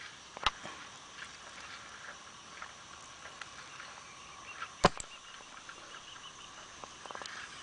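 Sharp clicks or knocks: one about half a second in, then a louder pair close together near five seconds, over faint outdoor background.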